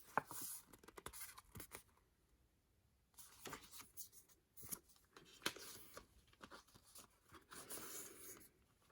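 Faint handling of a CD album's packaging and discs: scattered small clicks and short rustles, with a near-silent pause about two seconds in.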